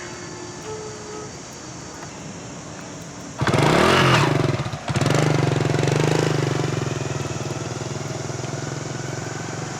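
A Honda Dream motorcycle's small single-cylinder four-stroke engine starts suddenly about a third of the way in and revs up. It dips for a moment a second later, then settles into steady running.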